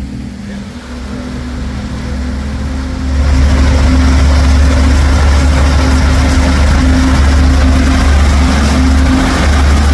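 Motorboat engine speeding up to tow a tube, a steady low drone under a rush of noise that grows and jumps much louder about three seconds in, then holds at full speed.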